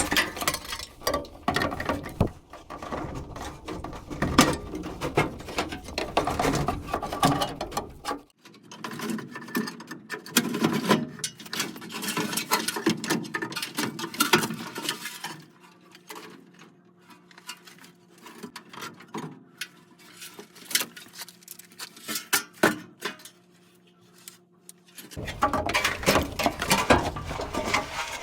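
Hand tools and metal furnace parts being worked: dense, irregular clicking, rattling and scraping. About halfway through it goes quieter for several seconds, with a faint steady hum under scattered clicks, then the busy clatter returns near the end.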